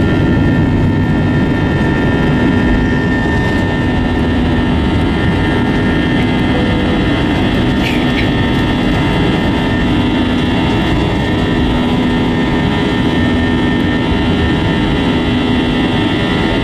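Airbus A320-232's IAE V2500 jet engines and rushing air heard inside the passenger cabin: a loud, steady roar with a steady high whine over it and a low hum that swells about every two seconds.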